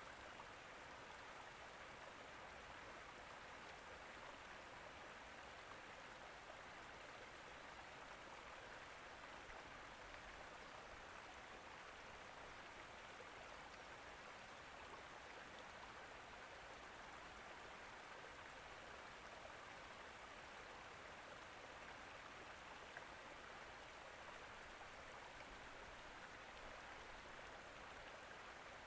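Faint, steady rush of running water, even and unbroken.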